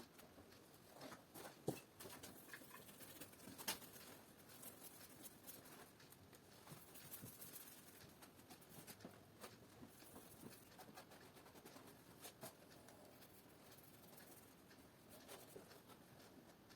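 Near silence: a small room with faint, scattered light clicks and rustles, the most distinct about two and four seconds in.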